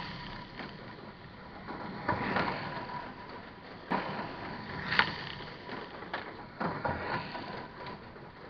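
Kyosho dNaNo 1:43-scale electric RC cars racing on a small track: a thin steady whine with the rattle of the little cars, broken by several sharp clacks, the loudest about five seconds in.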